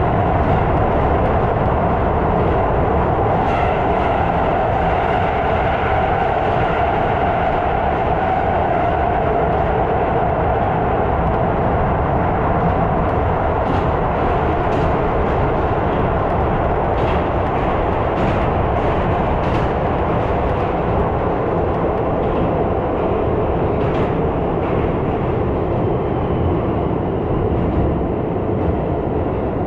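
Keisei 3000 series electric train running, heard from inside the car: a steady rumble with a hum that slowly lowers in pitch, and a few sharp clicks along the way.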